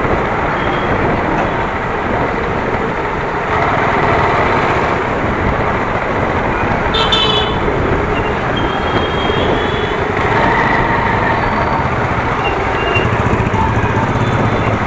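Motorcycle riding in traffic: steady wind and road noise with the engine running. A short, high horn toot sounds about seven seconds in.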